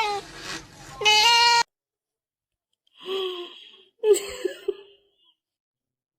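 A pet's high, drawn-out calls. A couple of calls in the first second and a half stop abruptly, and two fainter calls follow around three and four seconds in.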